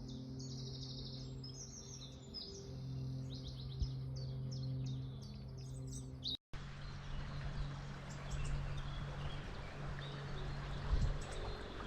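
Songbirds singing, a busy chorus of quick repeated chirps and trills over a steady low hum. About six seconds in, the sound cuts out for a moment and gives way to the even rush of a running river, with a few birds still chirping faintly over it.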